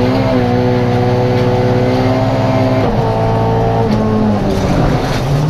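Volvo 240 rally car's engine running hard at high revs. Its pitch holds steady, steps down about three seconds in, then falls again near the end.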